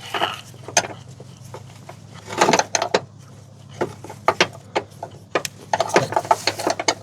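Hand tools clinking and knocking against metal suspension parts in irregular clusters of sharp clicks, as a wrench is worked around a hard-to-reach bolt.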